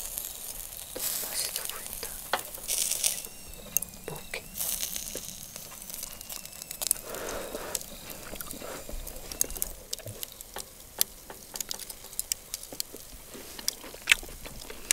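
Hanwoo ribeye sizzling on a grill over a wood fire, with many sharp crackles and pops and a few louder surges of hiss in the first few seconds.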